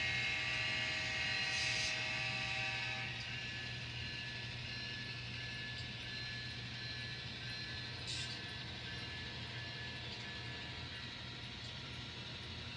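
N scale model locomotive running on the layout track: a steady electric-motor hum with a high whine that fades after about three seconds, and a light click near the middle.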